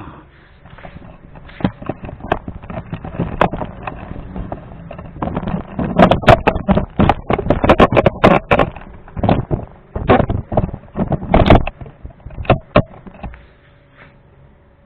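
A parcel being opened by hand: dense crackling, snapping and tearing of packaging with scattered knocks, busiest in the middle and thinning out near the end.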